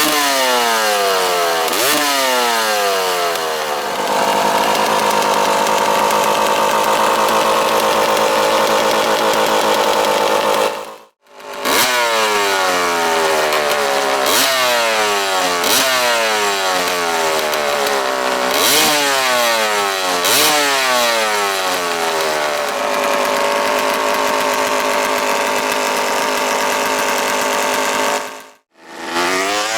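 Two-stroke dirt bike engine with an FMF Gnarly expansion chamber and Powercore 2 shorty silencer, revved in repeated quick throttle blips whose pitch falls away after each one, with two stretches held at steady high revs. The sound cuts out briefly twice.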